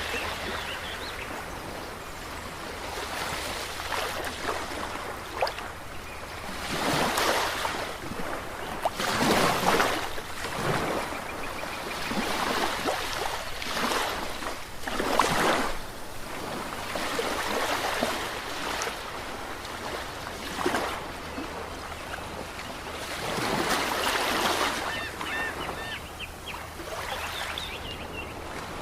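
Ocean waves breaking and washing up, in irregular surges a few seconds apart over a steady wash of surf.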